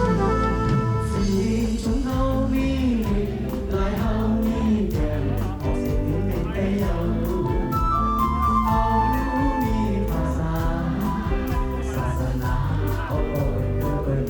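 A Shan pop song as heard in an in-ear monitor mix: an instrumental melody gives way to a sung melody about two seconds in, over bass and a steady percussion beat.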